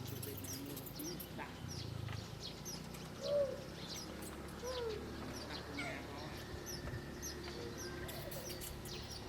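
Small wild birds chirping: many short, quick, high chirps throughout, with a couple of lower, louder calls at about three and five seconds in.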